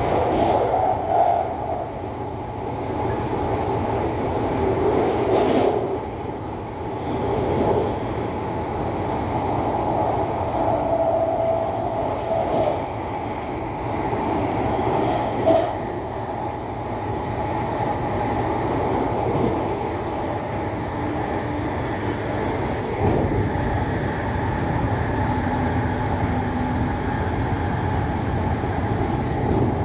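CAF-built MTR Tung Chung Line electric train running steadily on the rails: a continuous rumble with faint drifting tones and occasional clicks, the loudest a sharp click about halfway through.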